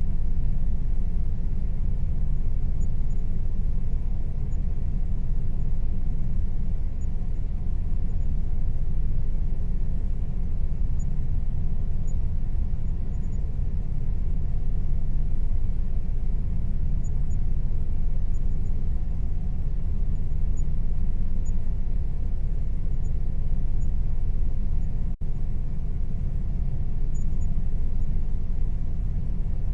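Air conditioner running steadily: a constant low rumbling hum with a faint steady tone above it, broken only by a momentary dropout near the end.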